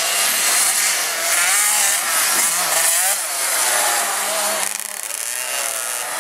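Several 50 cc two-stroke motocross bikes racing, their engines buzzing and revving up and down over one another, with a brief dip in level about five seconds in.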